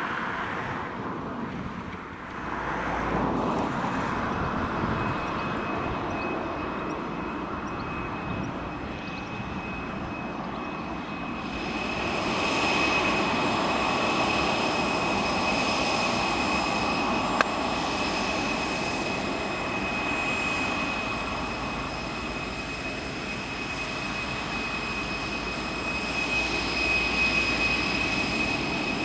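Boeing 747-400 jet engines: a steady rumble with a high fan whine, growing louder about twelve seconds in.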